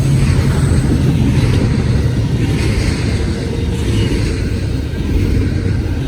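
Freight train passing close by at speed: a loud, steady rumble of wheels and cars on the track.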